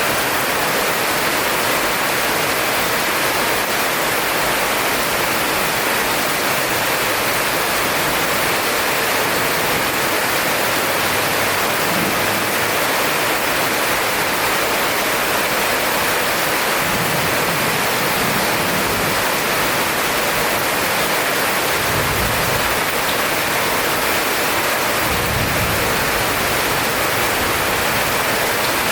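Heavy rain pouring down as a dense, steady hiss, with a few short low rumbles in the second half.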